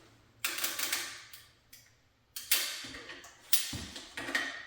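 Four sharp knocks or clanks at uneven gaps, each dying away over up to a second.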